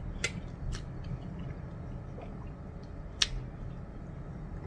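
Eating sounds from a spaghetti meal: a few wet mouth clicks and smacks while chewing, with one sharper click about three seconds in, over a steady low hum.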